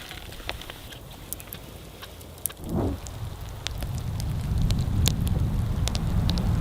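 Rain falling in woodland, heard as a scattered patter of sharp drips. About halfway through, a low rumble swells in and stays loud, and there is one short muffled thump just before it.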